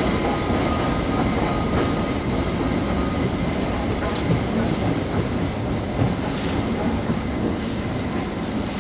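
Railway train running on the track out of view: a steady rumble of wheels on rail with faint high squealing tones, slowly fading.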